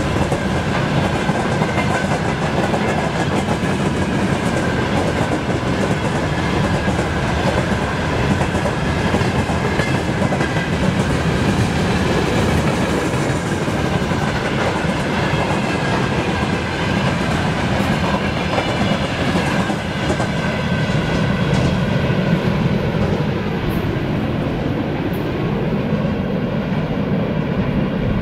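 A freight train's hopper and tank cars rolling past at speed, with a steady rumble and wheels clacking over the rail joints. The sound turns duller near the end as the train moves off.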